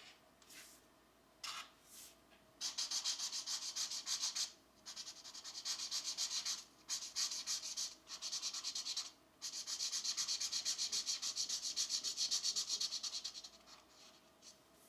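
Colored pencil shading on coloring-book paper: fast back-and-forth scratchy strokes in several runs, broken by short pauses, with a few single strokes at the start.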